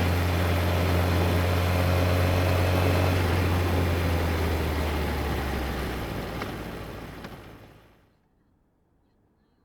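Yamaha XJR1300's air-cooled inline-four engine running steadily with a deep, even hum. About six seconds in it dies away over a couple of seconds, leaving near silence.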